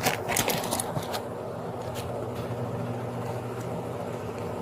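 A steady low machine hum, with a few short clicks and rustles in the first couple of seconds.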